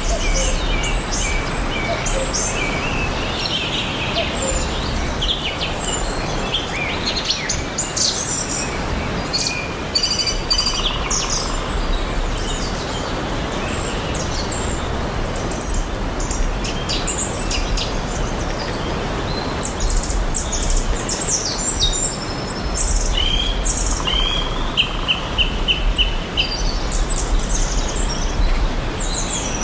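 Several songbirds chirping and singing in short, scattered calls, with a quick run of repeated notes late on, over a steady, even background hiss.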